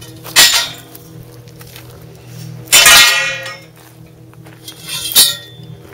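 Three sharp clinking strikes, each with a short ringing tail, about two and a half seconds apart, over a steady low drone.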